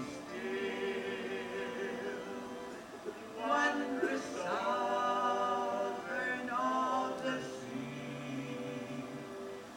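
Several voices singing together in harmony, holding long notes that change chord every second or two.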